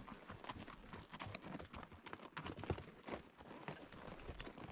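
Several horses walking, their hooves striking the ground in an uneven run of clops.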